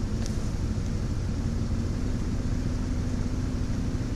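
Jeep Grand Cherokee ZJ's 5.2 V8 engine running steadily, its hum stepping up slightly about a second in.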